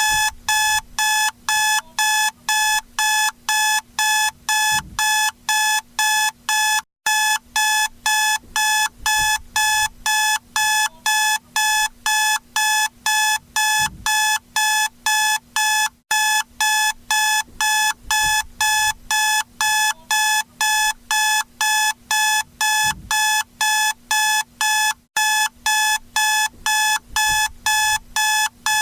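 Electronic alarm clock beeping, a wake-up alarm: short, even beeps at a single pitch, a little over two a second, with a brief break about every nine seconds.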